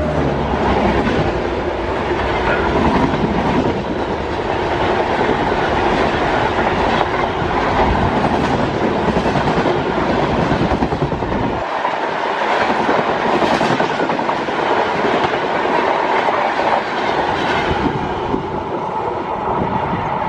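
Indian Railways express train running through a station at speed without stopping, its coaches passing with a steady clatter of wheels over the rail joints. The deep rumble drops away about halfway through while the wheel clatter carries on.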